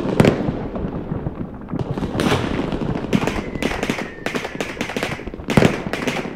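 Fireworks going off: a rapid, irregular series of sharp bangs and crackles, with a faint thin falling whistle in the middle.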